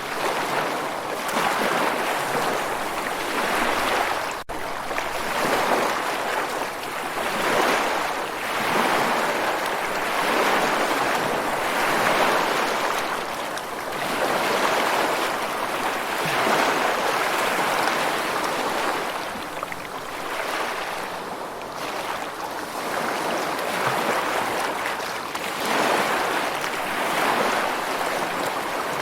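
Ocean waves washing in and drawing back, a rushing noise that swells and fades every few seconds, with a split-second break about four and a half seconds in.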